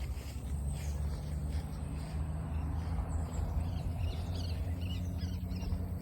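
Small birds chirping, a run of short calls in the second half, over a steady low rumble.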